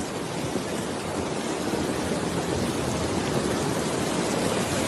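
Heavy rain and floodwater flowing, a steady wash of noise that slowly grows louder.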